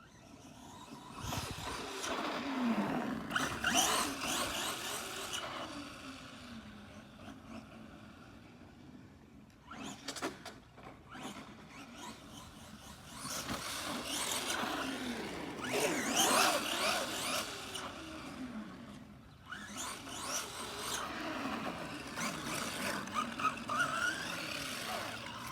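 Upgraded Arrma Gorgon RC monster truck's electric motor whining as it speeds up and slows down over several runs on pavement, the pitch rising and falling, with tyre noise.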